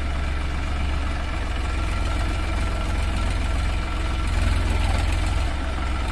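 Massey Ferguson 5245 DI tractor's three-cylinder diesel engine running steadily with a low, fast chugging, swelling slightly louder about four seconds in.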